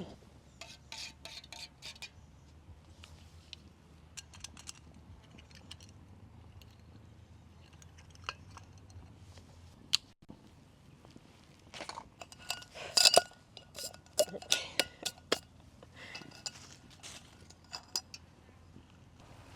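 Metal camping cookware and utensils clinking and knocking as they are handled. The clinks come in scattered clusters and are busiest and loudest in the second half.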